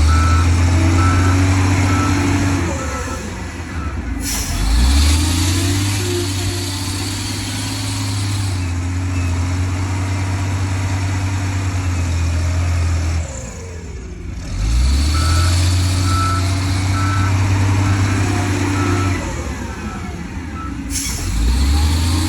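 Heavy diesel earthmoving machinery running and revving up several times. A reversing alarm beeps about twice a second near the start and again through the second half.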